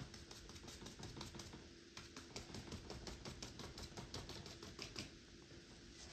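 Rapid light tapping, several taps a second, in two runs with a short break about a second and a half in, stopping about five seconds in.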